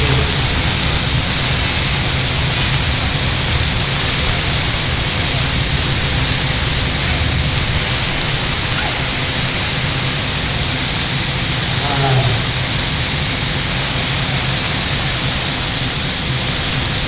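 Pulling tractor powered by General Electric T58 turboshaft engines running hard: a loud, steady roar with a constant high turbine whine over it.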